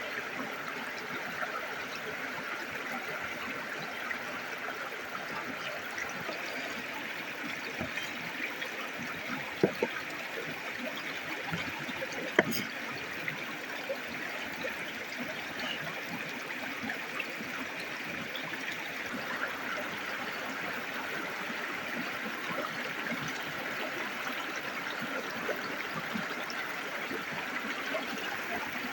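Shallow river water flowing and trickling steadily, with two sharp clicks or taps about ten and twelve seconds in.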